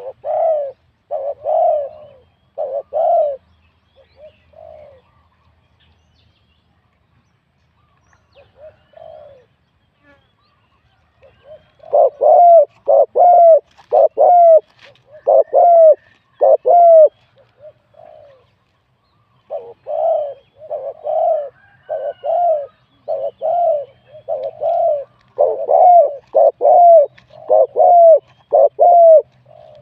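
Spotted dove cooing: short, hooked coo notes in runs. A few come in the first three seconds, then a long run starts about twelve seconds in and another about twenty seconds in.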